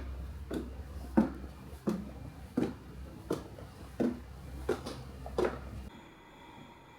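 A series of about eight evenly spaced knocks or thuds, roughly one every 0.7 s, over a low steady hum that cuts off near the end.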